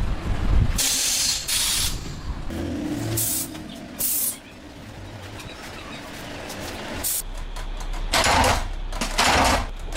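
Factory machinery noise with about seven short hisses of air, spaced irregularly. A steady low hum sets in about seven seconds in.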